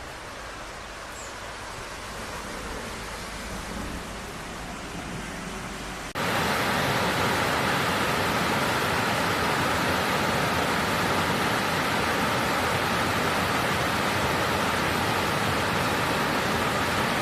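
Steady hiss of wet after-rain ambience, with no distinct events. About six seconds in it jumps abruptly to a louder, even hiss.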